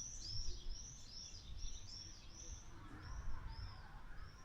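A small bird calling in a quick series of short, high, arched chirps, two or three a second, thinning out in the second half, over a low, uneven rumble.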